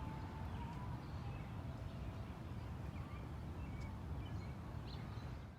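Outdoor background noise: a steady low rumble, with a few faint short chirps above it.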